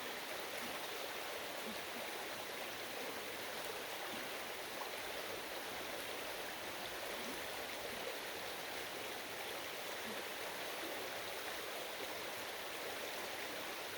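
Steady rush of flowing stream water, an even hiss-like sound with no distinct splashes.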